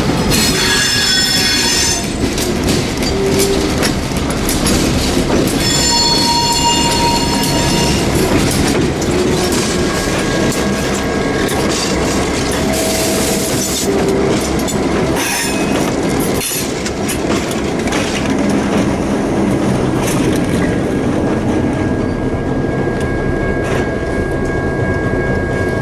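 A passenger train rolling past close by: steady rumble of wheels on rail with clicking over rail joints, and high-pitched wheel squeal near the start, again a few seconds later, and a thinner steady squeal through the second half.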